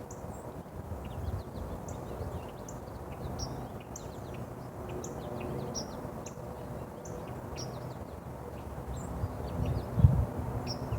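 Small birds chirping: many short, high chirps, some overlapping, over a steady low rumble, with a single knock about ten seconds in.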